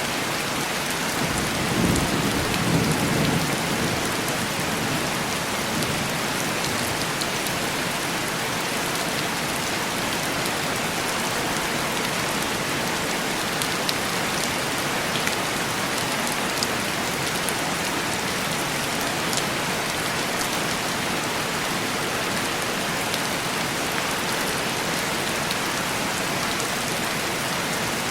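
Heavy rain falling steadily on window glass, a constant hiss with scattered drop taps. A low rumble of distant thunder swells briefly about two seconds in.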